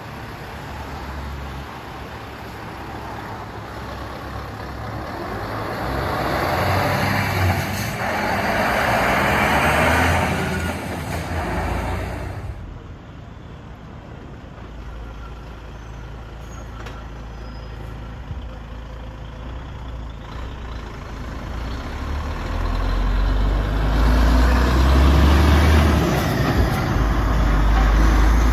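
Heavy diesel trucks driving past: one engine builds up and goes by, cutting off sharply about twelve seconds in, then another heavier, deeper engine rumble swells in the last few seconds.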